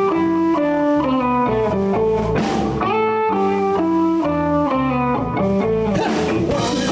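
Electric guitar playing a blues opening lick in A, with bass underneath. The phrase is played twice, and the drums come in near the end.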